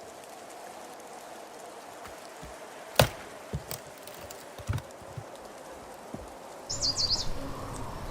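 One sharp knock about three seconds in, followed by several lighter knocks. Near the end a low rumbling noise starts and a brief high chirp sounds.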